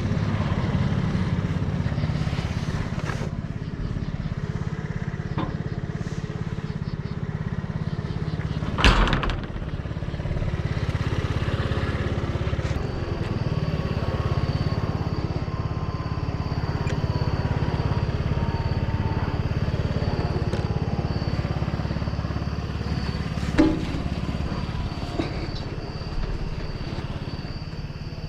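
Vehicle engine running steadily, with two sharp knocks, one about nine seconds in and one near the end.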